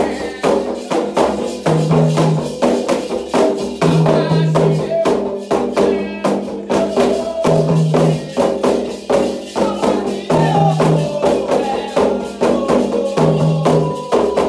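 Candomblé toque for Ogum: atabaque hand drums beating a fast, dense rhythm with rattling percussion, under sung chanting.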